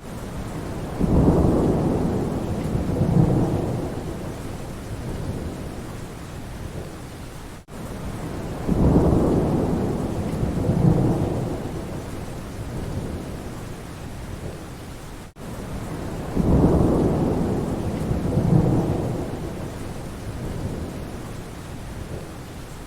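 Rain falling steadily with rolling thunder rumbling low. It is a short loop, so the same rumble swells three times, about every seven and a half seconds, with a brief dropout where the loop restarts.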